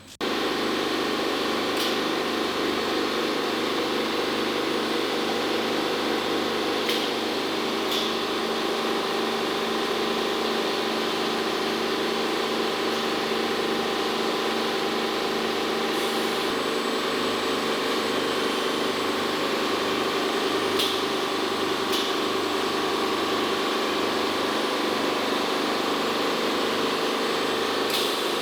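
Machinery running steadily, a constant hum of several tones with a few light clicks.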